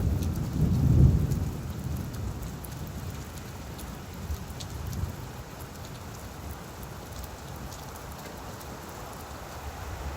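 Steady rain falling on leaves, with scattered drop ticks. A low rumble of distant thunder swells about a second in and fades away over the next few seconds.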